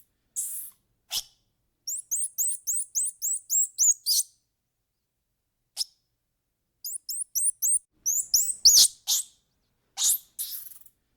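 A bird chirping: two quick runs of short, high-pitched chirps, about eight a second, with a few single harsher calls between them.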